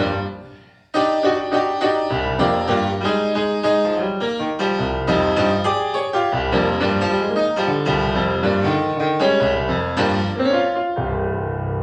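Keyboard music, busy with quickly struck notes; it breaks off almost to silence about a second in, comes straight back in, and settles into a softer held chord near the end.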